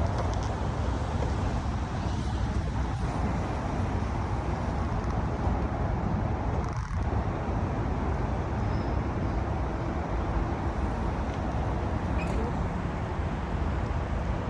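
Steady outdoor street noise with a heavy low rumble, like distant traffic or wind on the microphone, and no clear single event.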